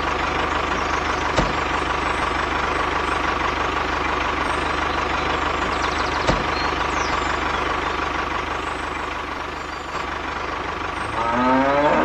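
Homemade mini toy tractor running steadily: an even, engine-like mechanical drone with a fast low rhythm and two small knocks.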